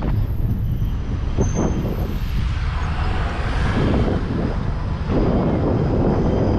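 Wind rumbling on the microphone of a moving bicycle, with the road noise of a vehicle swelling and fading about three to four seconds in.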